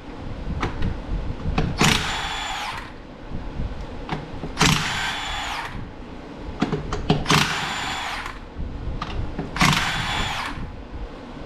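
Impact wrench spinning off a truck wheel's lug nuts: four short bursts of about a second each, a few seconds apart, with small metallic clicks in between.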